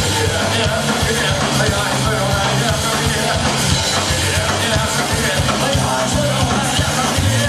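Live punk rock band playing loudly: a steady wall of electric band sound with bass and drums, with no clear vocal line.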